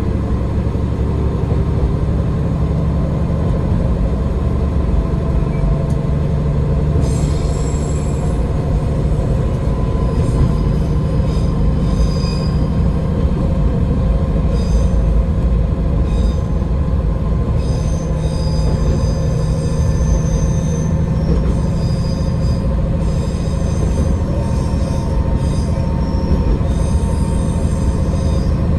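AN-8800 diesel railcar running on the line: a steady engine drone and rail rumble. From about a quarter of the way in, high-pitched wheel squeal comes and goes over the rumble.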